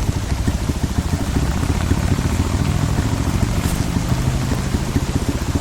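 Heavy rain pattering close by, a dense irregular drumming of drops over a steady hiss, with a low engine hum underneath.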